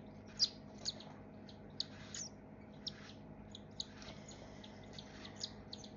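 Baby birds giving short, high chirps, a dozen or so scattered irregularly, begging to be fed.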